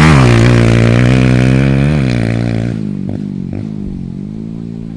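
Motocross dirt bike engine revving up close, its pitch dipping and climbing with the throttle, then fading as the bike moves away about three seconds in. Two brief knocks follow.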